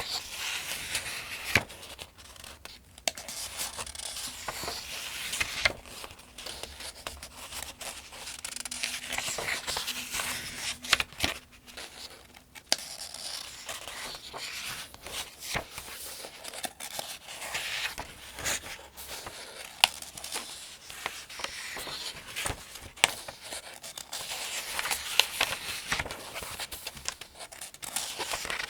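Pages of the Farmers' Almanac being turned one after another at a steady pace: paper swishing and crinkling in repeated swells, with small sharp clicks as the pages flip over.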